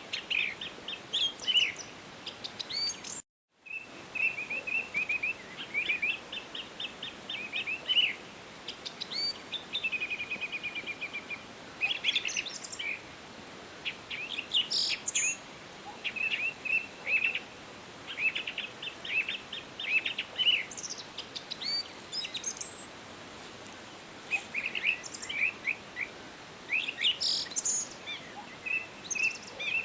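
Several songbirds chirping and trilling in quick, repeated phrases over a steady background hiss. The audio cuts out completely for a split second about three seconds in.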